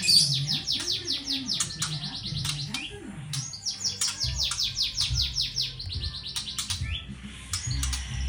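Young white-rumped shama, about a month and a half old, giving its rattling 'kretekan' call: long runs of quick down-slurred ticks, about ten a second, in two bursts with a short break near the middle.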